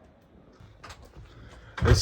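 Faint clicks, then a loud, low thud near the end as a train carriage door is pushed open.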